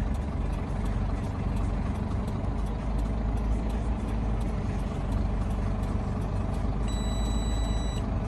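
American semi truck's diesel engine running steadily under load as it tows a stuck car out of the roadside snow, heard from inside the cab. A high electronic beep sounds for about a second near the end.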